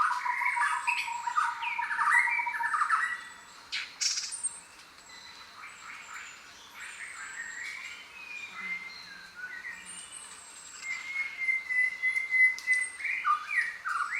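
Many jungle birds calling at once: a dense burst of squawks and chirps over a fast, steady trill for the first few seconds, then sparser calls with thin, high, falling whistles. A long, level whistle comes in a few seconds before the end, and louder calls pick up again at the very end.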